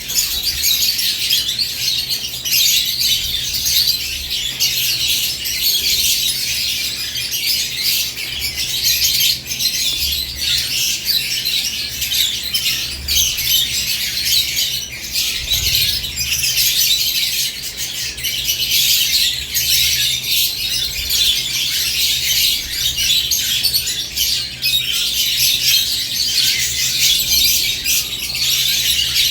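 Lovebirds in a cage chattering continuously, a dense mix of high-pitched chirps and squawks with no pause.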